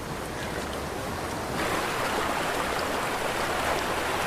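Rushing river water, a steady hiss that gradually grows louder and steps up sharply about a second and a half in.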